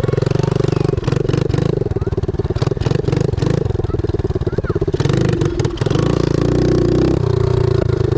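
Pit bike's small single-cylinder engine running steadily as it is ridden, with a fast pulsing note. Brief rushes of noise come through about a second in, around three seconds and around five seconds in.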